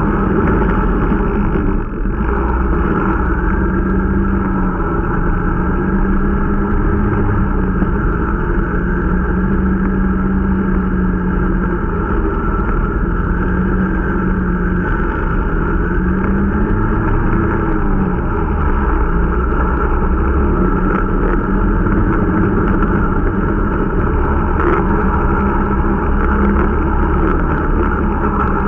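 Irbis Dingo T125 snowmobile's small single-cylinder engine running steadily under way during its break-in, the pitch rising and falling a little as the throttle changes.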